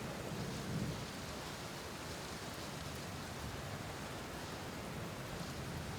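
Steady rain, with a low rumble about a second in.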